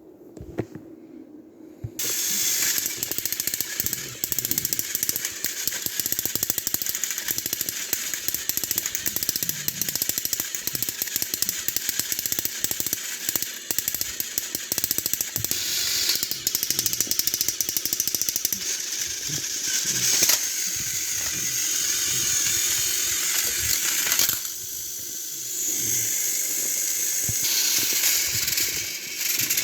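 Battery-powered Trackmaster toy train engines running: a dense, steady rattle of small motors, gears and plastic wheels that starts suddenly about two seconds in, eases briefly near the end, then picks up again.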